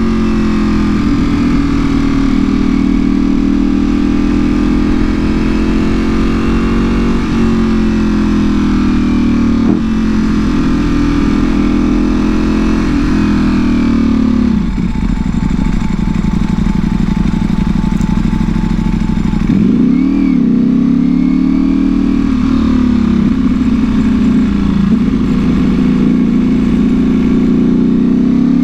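2024 Ducati Panigale V4R's V4 engine through an Akrapovic full exhaust, running while riding at a fairly steady pace, its pitch drifting up and down gently with the throttle. About halfway it drops briefly, then a quick rise and fall follows.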